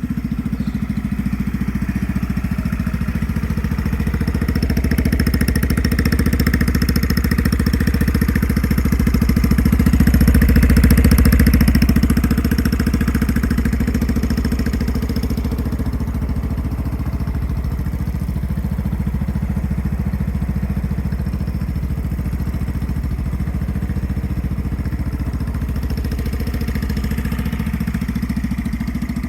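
Yamaha Majesty 125 FI scooter's fuel-injected single-cylinder four-stroke engine running at idle. It grows louder to a peak about eleven seconds in, then settles back to a steady idle.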